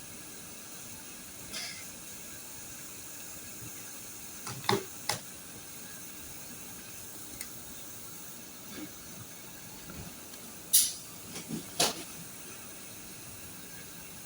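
Steady faint hiss with a few short sharp clicks and knocks, two near the middle and a small cluster later: small plastic security cameras being handled and set down.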